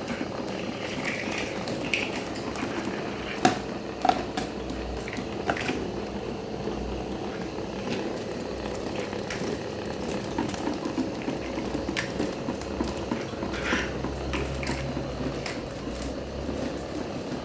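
Electric fan running with a homemade propeller: a steady whirr with a faint hum, broken by scattered clicks and rattles, the sharpest about three and a half and four seconds in.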